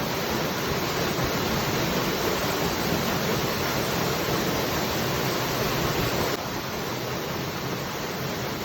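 Waterfall: a steady, dense rush of falling water. About six seconds in the level drops abruptly a little and stays lower.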